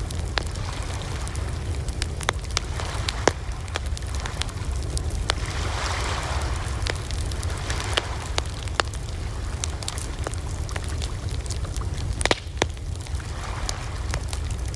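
Wood campfire crackling, with irregular sharp pops and snaps over a steady low rumble of the flames, and a soft hiss that swells up around the middle and again near the end.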